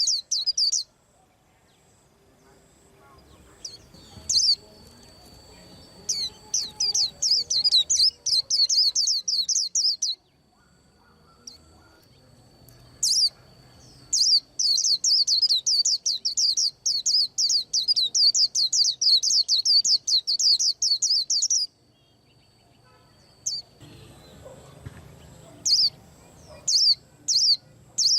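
White-eye singing long runs of very rapid, high chirping notes, broken by pauses of a few seconds between runs.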